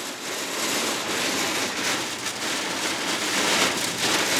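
Heavy rain beating on the roof and windows of a parked van, heard from inside the cabin: a steady hiss that grows slightly louder toward the end.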